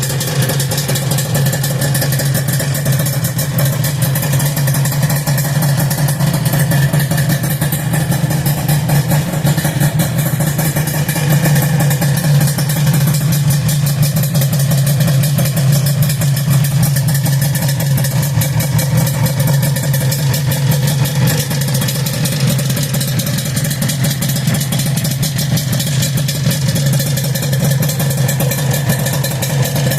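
Suzuki RG250Γ's two-stroke parallel-twin engine idling steadily through an aftermarket exhaust, with no revving.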